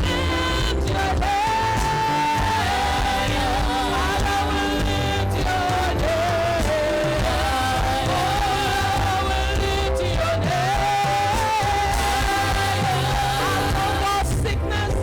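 Worship music: a lead voice singing long held, wavering notes over a band with a steady low bass and drum beat.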